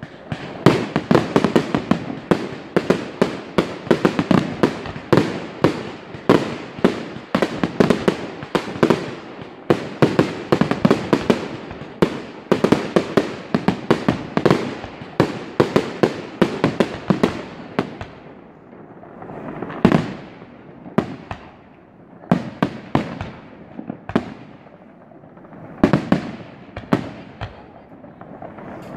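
Aerial fireworks bursting in quick succession, several bangs a second, thinning out after about two-thirds of the way into fewer, more spaced bangs.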